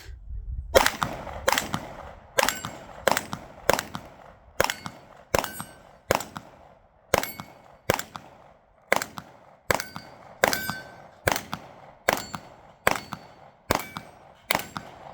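A steady string of about twenty gunshots from a rifle-and-pistol match stage, fired in quick succession about a second or less apart. Several shots are followed by a brief metallic ring.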